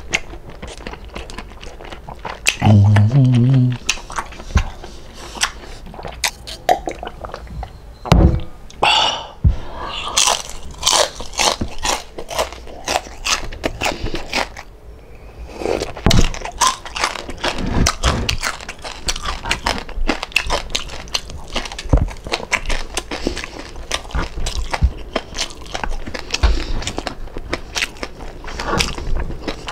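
Close-up chewing and crunching of crispy fried pork belly (lechon kawali), with many sharp crunches in quick, irregular succession.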